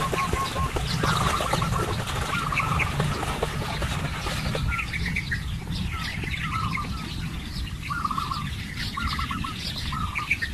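Birds calling in the forest, with many short repeated chirps and squawks, over a steady low rumble.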